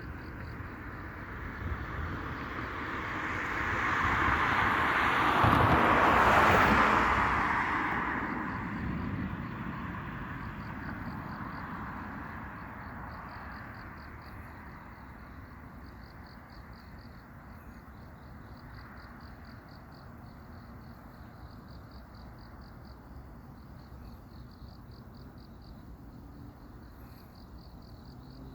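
A car passing on the road, its tyre and engine noise rising to a peak a few seconds in and then fading away. Crickets chirp steadily in a fast, even pulse.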